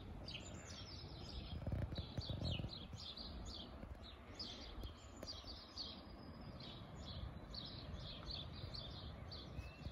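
Small songbirds chirping, a continuous scatter of short high chirps and song phrases, over a faint low background rumble.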